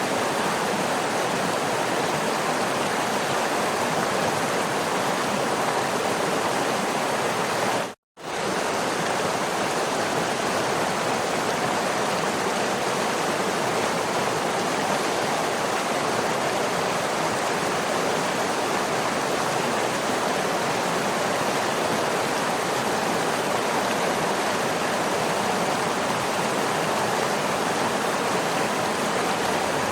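Waterfall rushing steadily, a dense even hiss of falling water. About eight seconds in the sound cuts out completely for a fraction of a second, then resumes at the same level.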